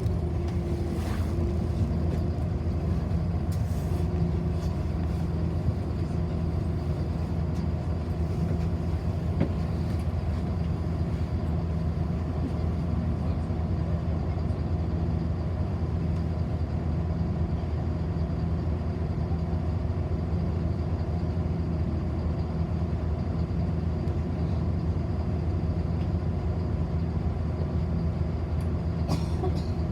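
City bus driving, heard from inside the passenger cabin: a steady low engine and road rumble, with a faint whine falling away in the first second and a few light clicks and rattles.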